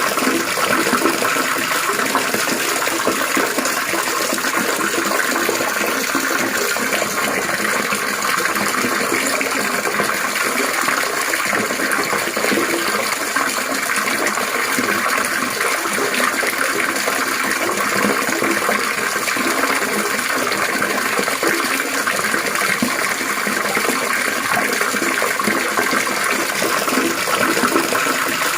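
Running water trickling and splashing steadily, a continuous gurgling wash without pause.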